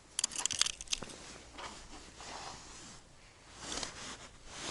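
Crinkly rustling and handling noise, a dense run of small ticks and crackles in the first second, then softer scuffs with a brief louder rustle near the end.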